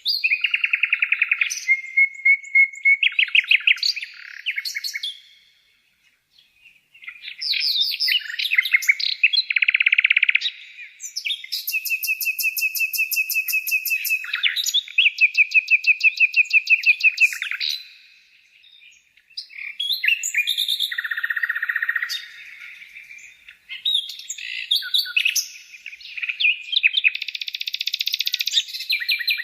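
Bird song: varied phrases of rapid trills and chirps, breaking off briefly about 6 and 18 seconds in.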